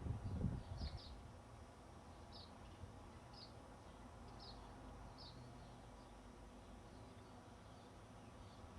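A bird giving short, sharp high chip calls, repeated roughly once a second and fading out after about five seconds, over a faint low rumble.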